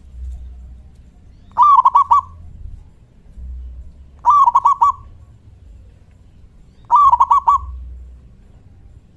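Local zebra dove (perkutut) calling: three short phrases about two and a half seconds apart, each a quick run of three or four cooing notes in a big 'kung' voice.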